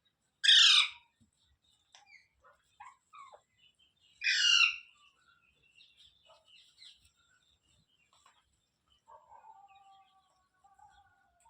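Indian ringneck parrot giving two loud, harsh screeches about four seconds apart, each about half a second long, with soft chirps between them and a quieter warbling call near the end.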